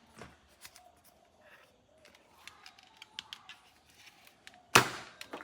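Plastic toy parts being handled: a run of small clicks and ticks, then one loud sharp snap near the end that rings briefly, followed by a last click.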